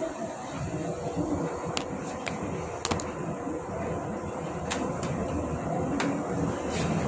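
Steady rumble and hiss of a high-speed train running, heard inside a small enclosed restroom, with about half a dozen sharp clicks and knocks scattered through it.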